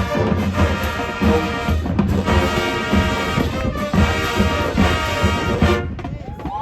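Marching band brass and drumline playing loudly together, with trombones and trumpets over steady bass-drum beats. The music cuts off sharply about six seconds in.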